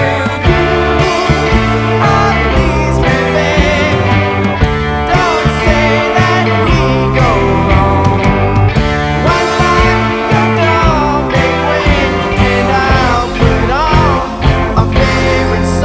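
Indie rock band playing, with guitars, bass and drums keeping a steady beat and a melody line over them.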